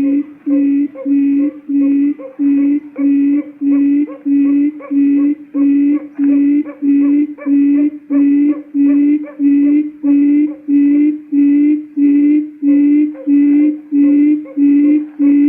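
Recorded quail lure call used for trapping: a low, hooting note repeated steadily about twice a second.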